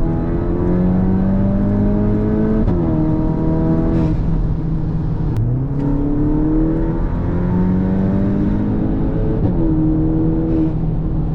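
Cupra Formentor's turbocharged 2.0 TSI four-cylinder with a REMUS exhaust, accelerating hard through the gears. The engine note climbs, drops at an upshift about three seconds in, then climbs again from low revs and drops at another upshift near the end.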